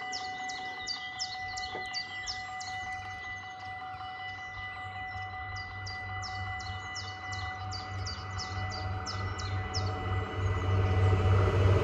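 Birds chirping in quick runs over a faint steady tone, while an approaching diesel railcar's low rumble builds and grows louder over the last few seconds.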